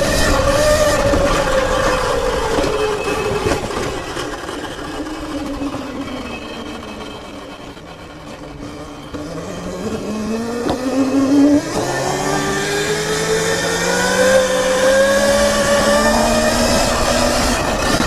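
Sur-Ron electric dirt bike's motor and drivetrain whining. The pitch slides down over the first half as the bike slows, then climbs steadily again from about halfway as it accelerates back up.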